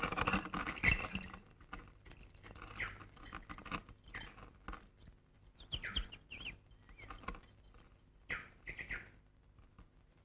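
Birds chirping: short, scattered calls with small rises and falls in pitch, coming a few at a time, with busier clusters about six seconds in and again near the end.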